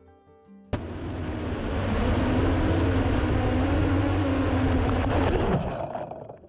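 Strong wind buffeting the microphone. It cuts in abruptly under a second in, with a steady hum running through it that slides down in pitch just before the noise dies away near the end.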